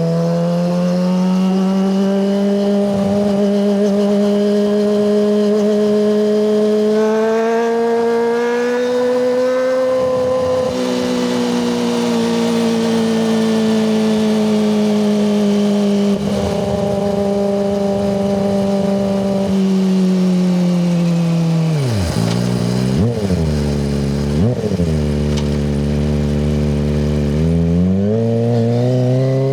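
Kawasaki ZX-25RR's 249 cc inline-four running through a Yoshimura Hepta Force exhaust, held at steady revs that slowly rise and ease off. Past the middle the revs drop sharply and recover three times in quick succession, then climb again near the end.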